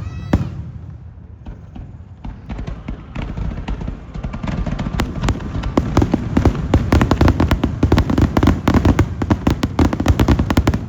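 Aerial fireworks bursting: scattered bangs at first, then a dense, rapid barrage of overlapping booms and crackles from about four seconds in.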